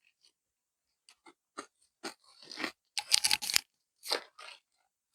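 Someone eating a crunchy snack close to the microphone: irregular crisp crunches and chewing, a few small ones early, then louder, denser crunching about three seconds in, with another bite near the end.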